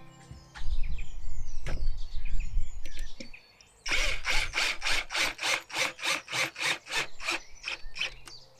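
Hand saw cutting through wood, a steady run of strokes at about three a second, starting about four seconds in.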